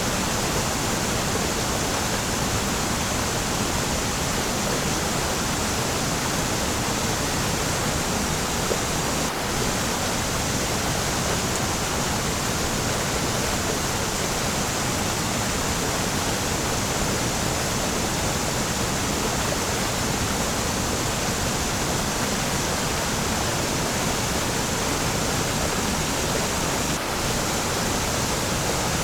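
Waterfall: a steady, even rush of falling water, with two very brief slight dips in level, about nine seconds in and near the end.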